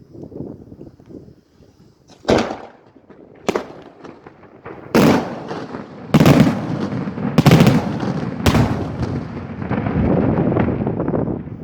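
Daytime fireworks battery going off: about six sharp, loud bangs spaced a second or so apart from about two seconds in, each echoing. From about six seconds in they sit over a continuous low rumble of further bursts.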